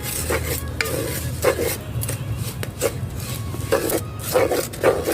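A metal spoon or ladle scraping and stirring in a metal pan, in a run of irregular strokes, as puffed rice is mixed with jaggery to make muan.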